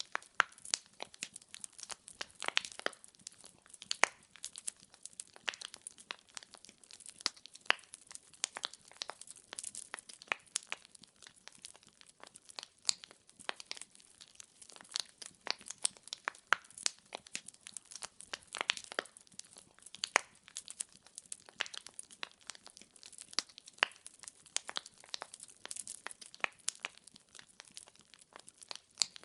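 Burning firewood crackling and popping: many irregular sharp snaps, some loud, over a soft hiss.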